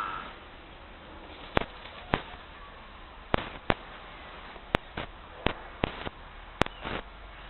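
A series of sharp clicks or knocks at irregular intervals, about a dozen, some in quick pairs, over a faint steady background.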